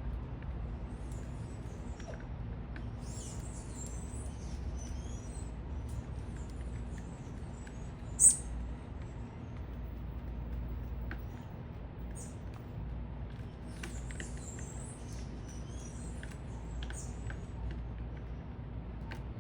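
Small birds chirping at a feeder: short high-pitched chirps in scattered clusters, with one much louder sharp sound about eight seconds in, over a low steady city rumble.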